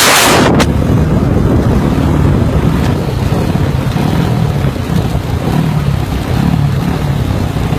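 Engine of a ride-on vehicle running steadily, with a burst of wind hitting the microphone in the first half-second.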